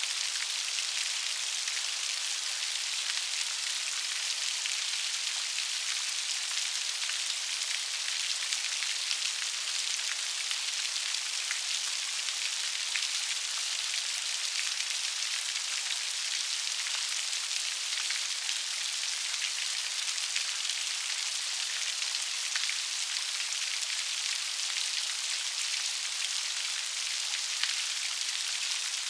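Steady rainfall, a dense even patter of many raindrops with small individual drop ticks scattered through it.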